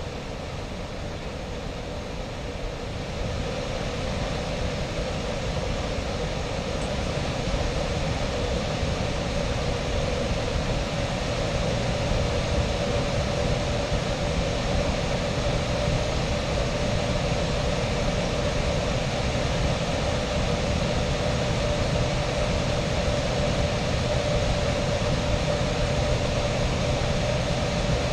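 Variable-speed blower motor of an air handler ramping up. It makes a steady rush of air with a hum, growing louder over the first several seconds and then holding at full speed as the electric heat strips come on.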